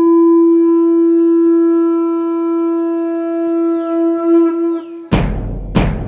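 A blown horn holds one long, steady note for about five seconds, then two heavy percussive hits come under a second apart near the end.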